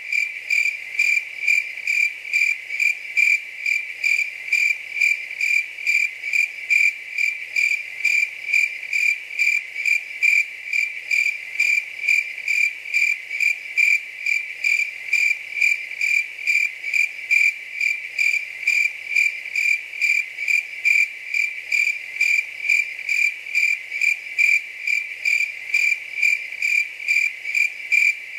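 Cricket chirping in an even, unbroken rhythm of about two to three high chirps a second.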